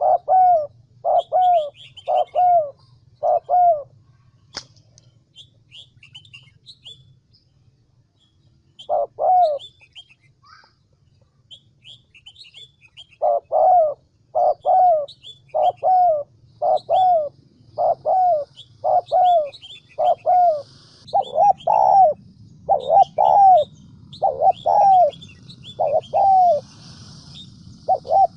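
Spotted dove giving rapid runs of short, evenly spaced coos, the excited fighting call used as a trapping decoy. A run of coos opens, a single coo comes about nine seconds in, and a long unbroken run begins about halfway through. Small birds chirp faintly in the background, and there is one sharp click early on.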